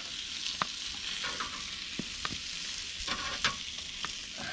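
Sausages, courgette and aubergine sizzling on a hot grill: a steady hiss with about five sharp pops of spitting fat.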